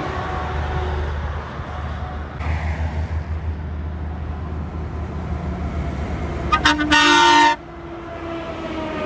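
A heavy truck's diesel engine rumbling as it goes by, then its horn sounding about seven seconds in: a few quick toots followed by a short held blast, the loudest sound.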